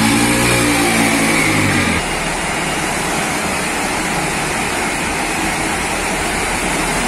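A motor vehicle engine running with a steady note for about two seconds, then cutting off abruptly, followed by a steady rushing noise.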